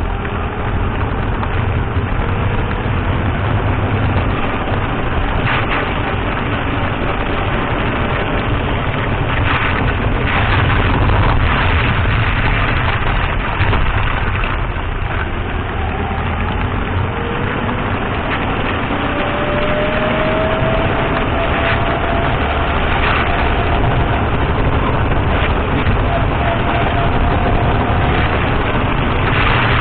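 Car driving on the road: steady tyre and road rumble with the engine running underneath, and a few short knocks from the suspension over bumps. A faint thin whine comes in for several seconds past the middle.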